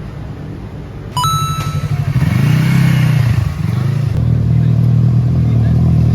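Sport motorcycle engine revving up and getting louder, dipping briefly, then running loud and steady, with a short high beep about a second in.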